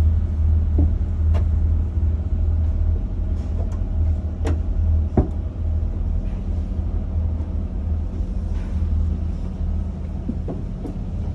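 Cruise boat's engine droning steadily, a low hum with a higher whine above it, heard from on board. A few light knocks or clicks come over it within the first five or so seconds.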